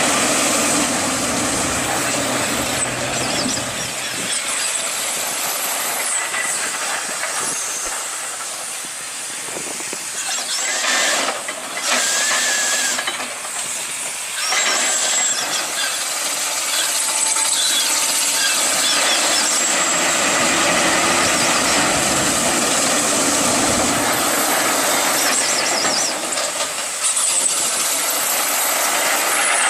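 Steam shovel working: a steady hiss of steam with high squeals from its machinery, and a low rumble in the first few seconds.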